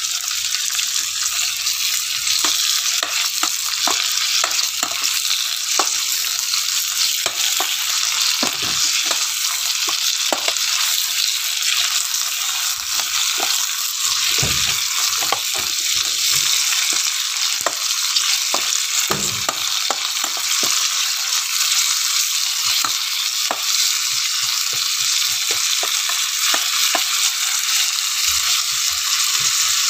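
Kepayang leaves frying with shallots and garlic in oil in a stainless-steel pot: a steady, loud sizzle, with a spoon stirring and scraping against the pot in short clicks throughout.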